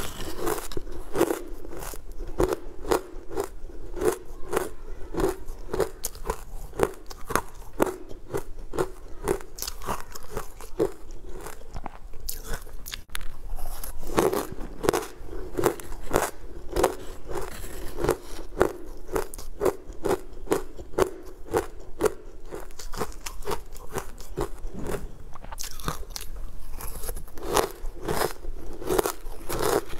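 A person biting and chewing crumbly green powdered blocks, a steady run of crisp crunches about two or three a second.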